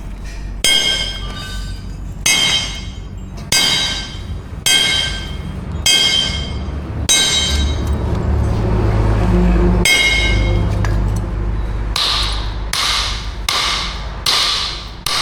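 Blacksmith's hammer striking steel on an anvil, about one blow a second, each blow ringing. Near the end the blows come quicker and duller.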